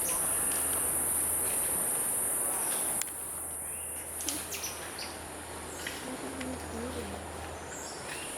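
Steady, high-pitched drone of tropical forest insects, with a step down in loudness about three seconds in.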